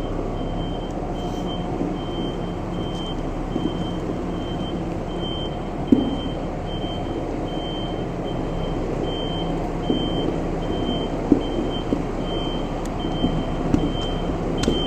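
A tractor's diesel engine running steadily while a reversing alarm beeps a little more than once a second, as the machine backs slowly. A few light knocks come about six and ten seconds in.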